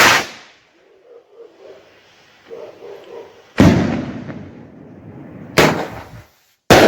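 Firework shells from shot tubes bursting overhead: three loud bangs about halfway through, two seconds later, and near the end, each fading in a rolling echo, with the tail of an earlier bang dying away at the start.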